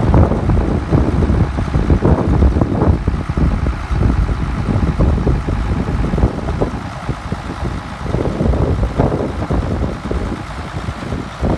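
Case 970 tractor engine running, with uneven gusts of wind on the microphone.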